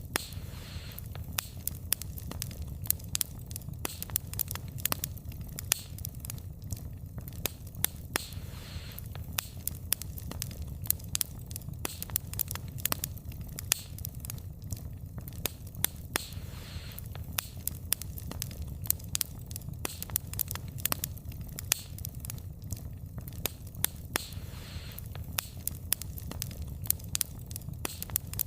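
Burning firewood crackling and popping irregularly over the low, steady rumble of the flames.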